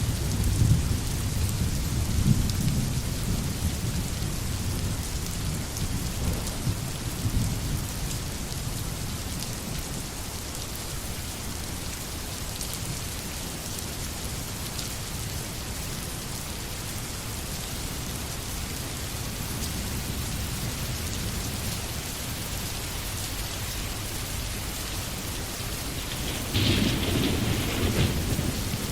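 Steady rain falling in a forest, with a low rumble of thunder in the first few seconds that fades away, and a louder rumble near the end.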